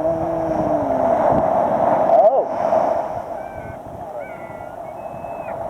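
Seagulls calling several short times over a steady wash of surf and wind.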